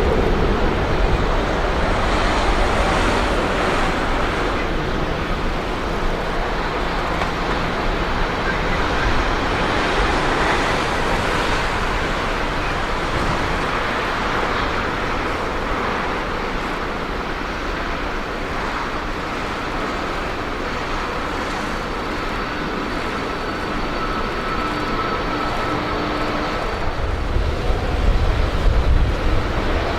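Boeing 777-200ER's twin jet engines at takeoff power, a loud steady roar with deeper rumble building near the end.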